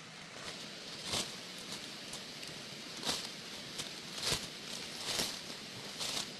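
Leafy plants rustling in about five short, irregular bursts as greens are picked by hand.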